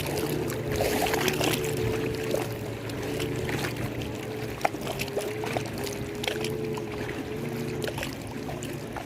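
Lake water lapping and splashing in small irregular slaps, over a steady low hum.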